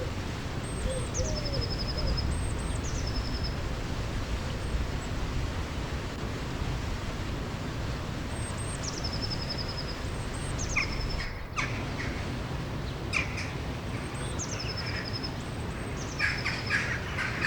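Steady rushing of river water with a small songbird repeating a short high phrase that drops into a quick trill, sung in pairs three times. Shorter, sharper chirps come in toward the end.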